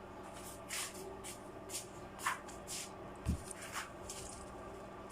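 Bottles and plastic containers being handled and set onto fridge shelves: a run of short rustles and light knocks, with one dull thump about three seconds in, over a steady low hum.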